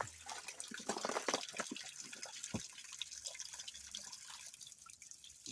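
Spring water dripping and trickling: a patter of irregular drops, busiest in the first couple of seconds, with one sharper drop or knock about halfway through.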